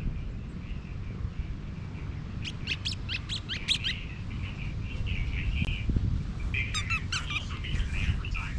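Small birds chirping: a quick run of sharp high notes a few seconds in, then chattering and a fast trill near the end. A steady low wind rumble on the microphone runs underneath.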